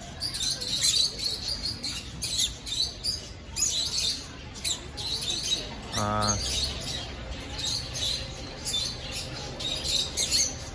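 A flock of small parrots chirping and chattering continuously, many birds calling over one another in high, rapid twitters. One short, lower pitched call stands out about six seconds in.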